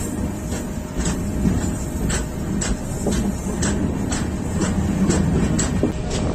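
Train running over the track with a steady low rumble and a regular clicking of the wheels on the rails, about two clicks a second.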